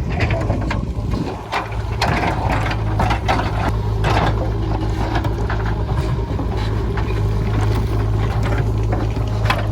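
JCB 3DX backhoe loader's diesel engine running steadily under load, with irregular knocks and clatter of rock and stones as the bucket digs into the stony hillside. The engine note grows stronger about two seconds in.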